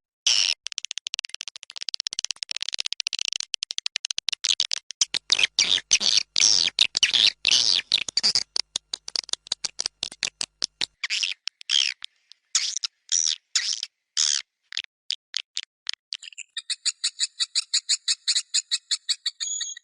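Recorded swiftlet calls of the kind played to lure swiftlets into a bird house: rapid, overlapping high chirps and clicking twitters that thin out after about 11 seconds. About 16 seconds in they change to a fast, even train of short, high tweets.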